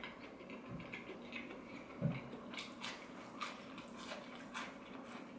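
Chewing a crispy fried chicken strip: a run of faint, sharp crunches and crackles from the coating.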